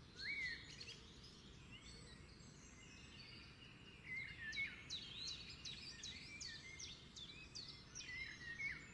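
Faint birds chirping and tweeting over a low hiss, the chirps coming thick and fast from about four seconds in.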